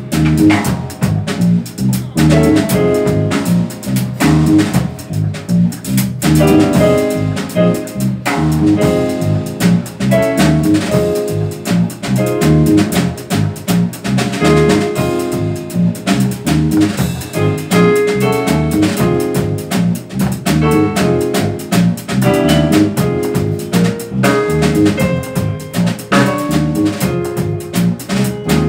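Live jazz quartet playing: piano, bass and drum kit, with busy drumming and piano chords; saxophone comes in near the end.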